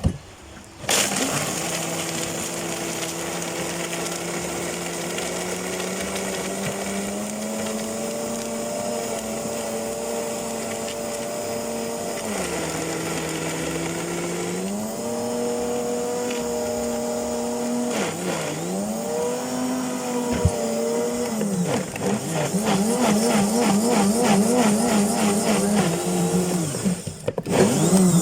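Electric drink blender running, starting about a second in. Its motor pitch creeps slowly upward, drops twice for a moment as the load bogs it down, and warbles unevenly near the end before it stops.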